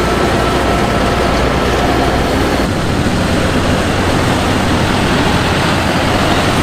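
A large machine running: a loud, steady engine rumble under a dense, even mechanical noise. It cuts off suddenly near the end.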